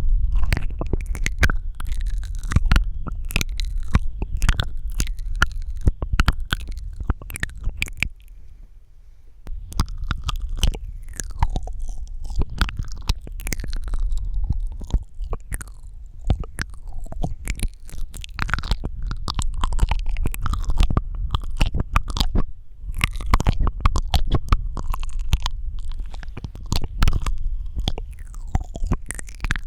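Close-miked ASMR mouth sounds: rapid wet clicks, smacks and tongue pops, over a steady low rumble, with a brief pause about eight seconds in.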